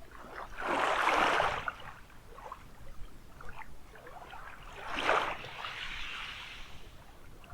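Small waves washing up the sand, two swells of surf about a second in and about five seconds in, with a faint trickle of water between them.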